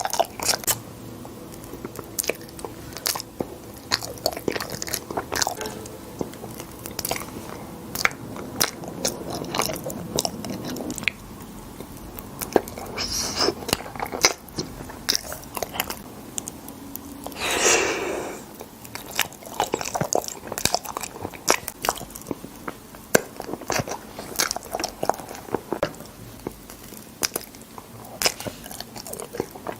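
A person chewing and biting food, with many sharp crunchy clicks throughout. A louder, noisier sound lasting about a second comes a little past halfway.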